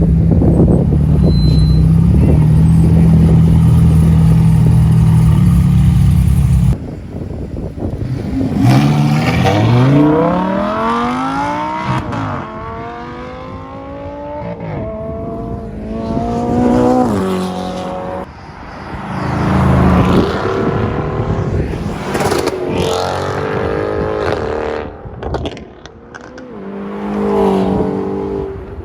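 Sports car engines accelerating hard one after another, each note rising through the gears and dropping back at every upshift. It opens on a steady, loud engine drone that cuts off abruptly about seven seconds in.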